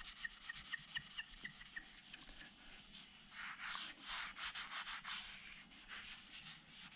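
Soot-covered fireplace glass being scrubbed in quick back-and-forth strokes, with faint squeaks of the wet glass during the first couple of seconds, as the degreaser-softened soot comes off.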